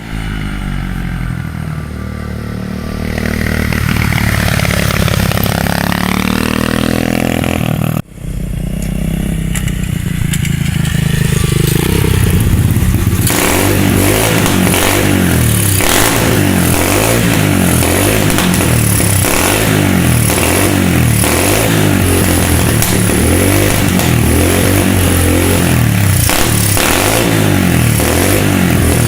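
SSR 125 pit bike's single-cylinder four-stroke engine running and being revved up and down, its pitch rising and falling. After a sudden break about eight seconds in, it runs again, building up and running loud and steady from about thirteen seconds on. The bike suffers from a blocked pilot jet, the fault that makes it die once the choke is turned off.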